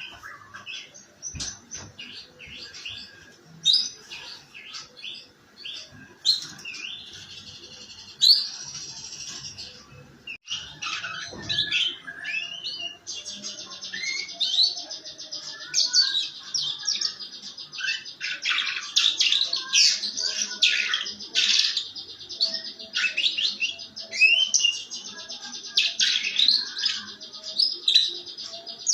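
Domestic canary singing its rough, rapid 'ngeriwik' song: scattered high chirps and short notes at first, then from about halfway a long, dense, fast trill broken by brief sweeping notes.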